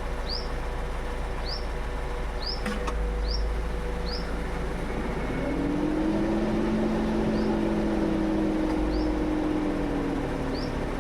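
Toyota Innova Hycross AC compressor coming on with a single sharp tock, the knock the owner hears every time it engages and suspects is a fault. A couple of seconds later a low hum rises in pitch, holds steady for several seconds, then eases off.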